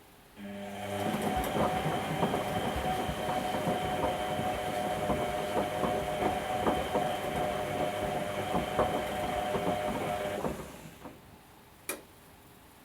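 Whirlpool washing machine's motor turning the drum during the wash, a steady hum with irregular knocking and clattering from the toy ducks and water tumbling inside; it runs about ten seconds and stops, followed by a single click a moment later.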